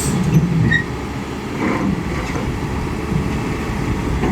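Hyundai excavator's diesel engine running steadily as a low rumble, with a brief sharp knock right at the start.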